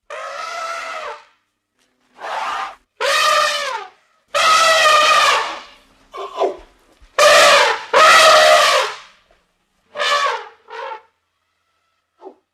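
A series of about nine loud, drawn-out animal calls, each half a second to a second and a half long with a bending pitch, separated by short pauses.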